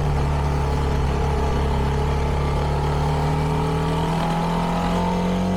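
CFMoto 300NK's single-cylinder engine running through its stock exhaust under way, holding a gear with the revs climbing slowly and steadily.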